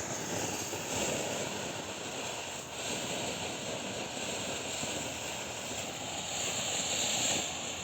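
Green dragon firework fountain spraying sparks with a steady hiss that drops off sharply near the end as it burns out.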